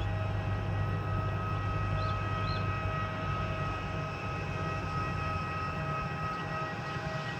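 Jet airliner's engines running with a steady high whine over a low rumble, the rumble easing off about five seconds in.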